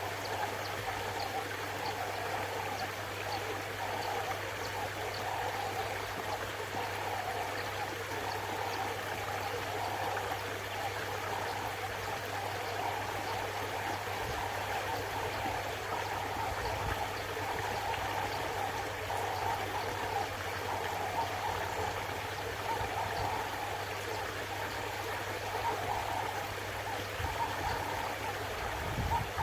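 Koi pond water running and trickling steadily, with a steady low hum underneath.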